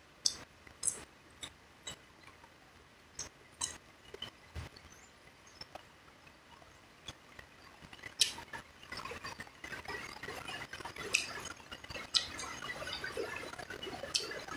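Close-up eating sounds: raw vegetables such as cucumber being chewed, with scattered sharp wet mouth clicks. About eight seconds in, a denser, continuous crackling patter sets in.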